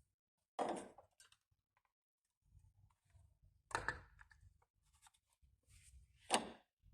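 Three short clunks of handling, about three seconds apart, with faint low rumbling between them.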